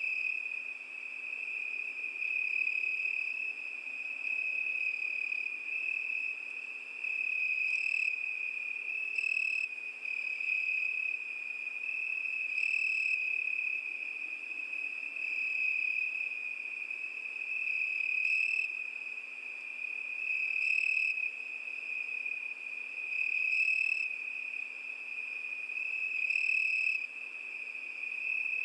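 Crickets trilling without a break in one high, steady pitch, the level swelling and easing every two to three seconds.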